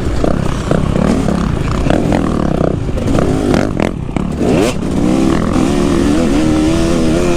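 KTM 250 SX two-stroke motocross engine being ridden hard, the throttle chopped on and off in short bursts. About four and a half seconds in, the revs climb quickly, and the engine then holds a steady high rev, rising slowly.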